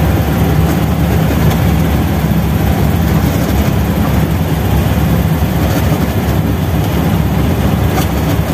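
Classic Volkswagen's 1200 cc air-cooled flat-four engine pulling steadily under load up a steep hill, heard from inside the cabin.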